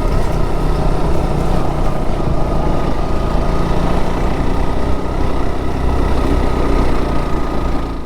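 Motorcycle engine running while riding, a loud steady noise with heavy low rumble.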